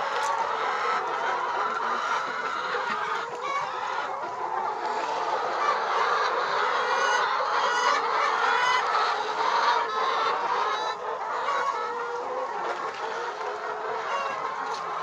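A flock of laying hens clucking continuously, with many calls overlapping.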